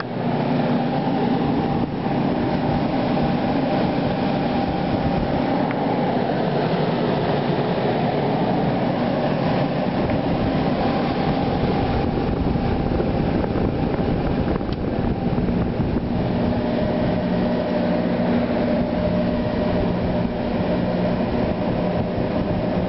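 1989 Friedrich Challenger 8,000 BTU window air conditioner running: a steady fan rush with a compressor hum underneath, running smoothly with a fairly quiet compressor.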